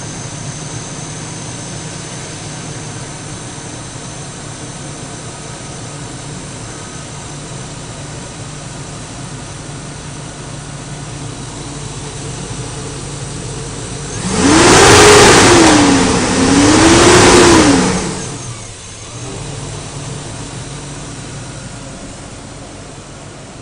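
2001 GMC Yukon XL's 5.3-litre V8 idling steadily, then revved twice in quick succession about two-thirds of the way through, each rev climbing and falling back, before settling to idle again.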